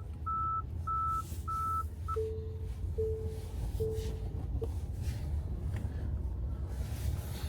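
A run of short electronic beeps, first five higher ones about half a second apart, then four lower ones a little more slowly, over a steady low rumble of the car cabin.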